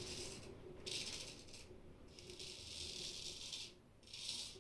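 Straight razor scraping through about three days of stubble on a lathered face: four rasping strokes, each under two seconds, with short pauses between them.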